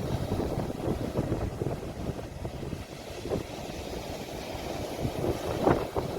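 Sea waves recorded on a phone at the shore, a rough low noise with wind buffeting the microphone in short gusts.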